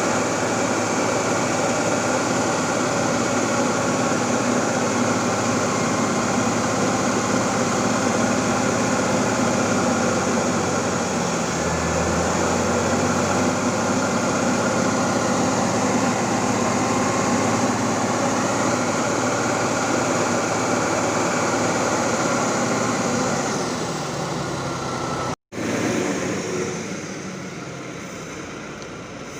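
Heavy diesel truck engine running steadily under load, its pitch shifting slowly up and down. Near the end the sound breaks off for an instant, then comes back weaker and fades.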